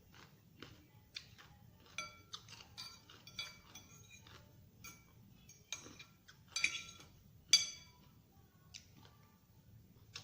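Cutlery clinking and scraping against a dish while salad is eaten, a string of small ringing clinks, loudest a little past the middle.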